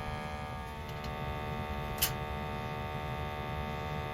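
Steady electrical hum with many even overtones, with a single sharp click about two seconds in.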